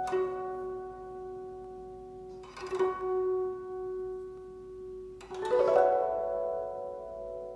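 Guzheng music played slowly: single plucked notes ring out and fade, a few notes come together about three seconds in, and a sweep of notes about five seconds in has some bending up in pitch.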